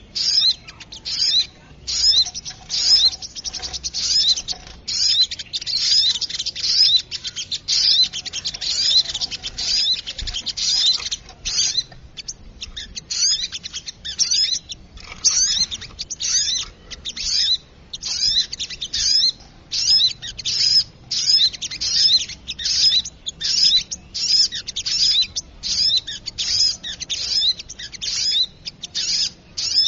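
Bird-luring call of small birds, the sogok ontong: high, fast chirping in short busy bursts, about two a second, kept up without a break.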